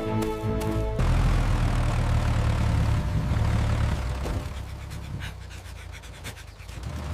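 A short stretch of music, then from about a second in a steady low vehicle engine rumble that eases off for a while and swells again near the end.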